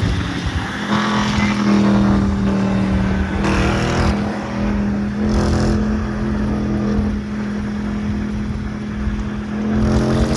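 Car engine running under steady load, a loud constant drone whose pitch holds nearly level.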